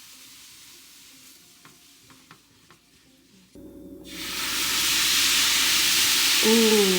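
Food frying in a pan: quiet with a few faint clicks at first, then a loud, steady sizzle starts about four seconds in.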